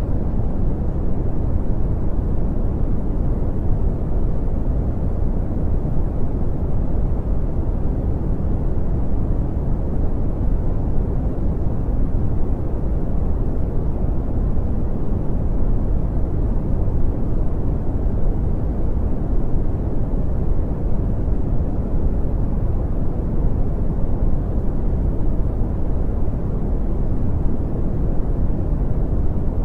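Brown noise: a steady, deep hiss with a strong bass and little treble, unchanging throughout.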